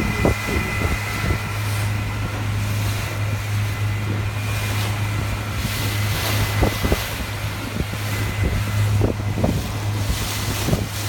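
A boat's engine running with a steady low drone, with wind buffeting the microphone in irregular thumps.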